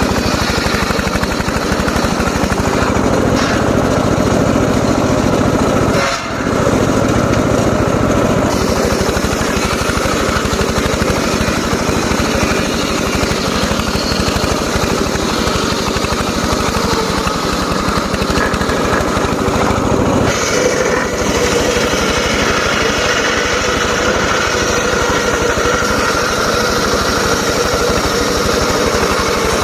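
Engine-driven homemade circular saw rig running steadily and loudly, with a brief drop about six seconds in and a change in tone around twenty seconds.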